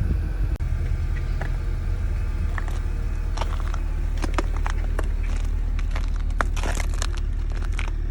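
Steady low rumble of a car on the move, with scattered crackling clicks that start about three seconds in and come thickest near the end.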